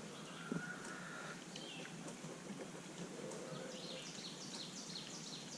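Quiet outdoor background hiss with a bird singing a run of quick, falling high chirps in the second half, and a small knock about half a second in.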